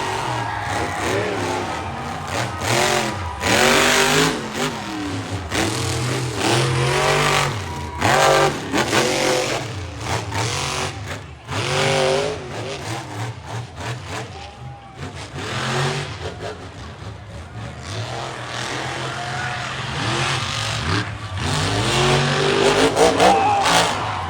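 Monster truck engine revving hard over and over, its pitch sweeping up and falling back many times as the throttle is worked, with a louder surge near the end.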